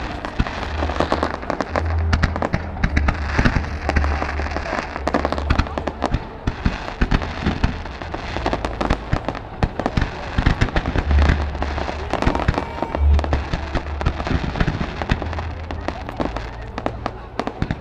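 Fireworks display: a dense, continuous run of shells bursting in rapid bangs and crackles, with no let-up.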